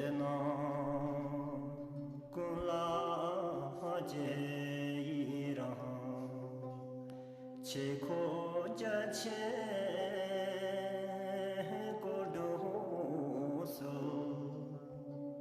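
Soft music: a chanted, mantra-like vocal over steady held tones.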